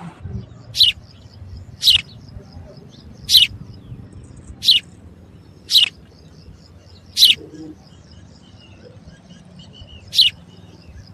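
A bird giving seven loud, short, sharp chirps about a second apart, with a longer pause before the last one, over fainter twittering from other birds.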